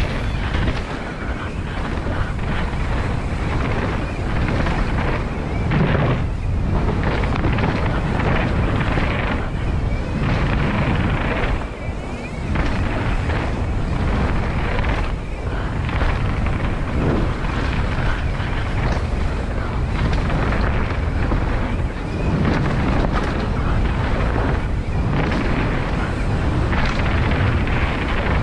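Wind buffeting the camera microphone with the rumble of a mountain bike rolling fast down a dirt trail, steady and loud with a few brief dips.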